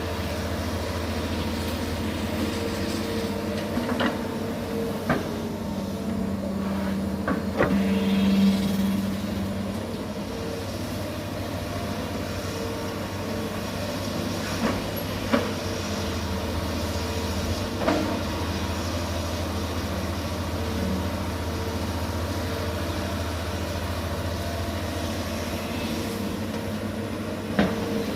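Komatsu PC200 long-arm excavator's diesel engine running steadily under load as the machine works to free itself from peat mud. The engine swells for a couple of seconds about eight seconds in. Scattered sharp metallic clanks and knocks from the machine sound throughout.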